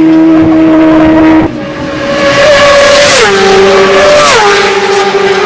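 Racing motorcycle engine running flat out at high revs, a steady high note. Its pitch steps down sharply twice in the second half.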